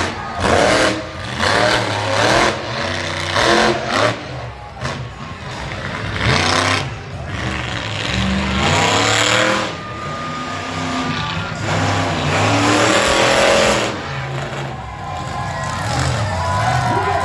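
Monster truck engine revving hard in repeated surges, its pitch rising and falling, then running in longer sustained pulls.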